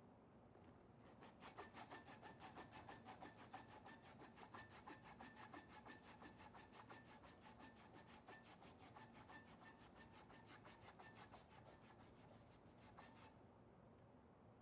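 Quick, even back-and-forth rubbing strokes, about five a second, of an abrasive against the steel of an old hunting knife, with a faint metallic ring. The strokes start about a second in and stop near the end.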